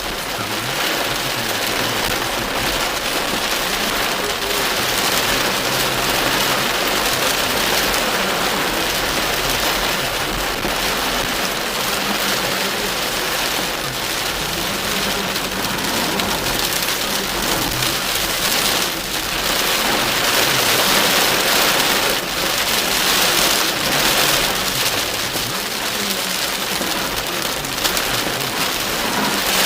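Heavy rain hitting a car's roof and windscreen, heard from inside the car as a loud, steady hiss.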